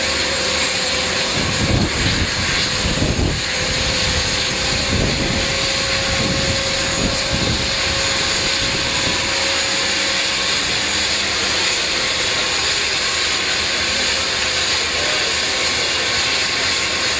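An aircraft-style engine and propeller running in a steady drone, with a held hum for the first half and some low buffeting in the first several seconds.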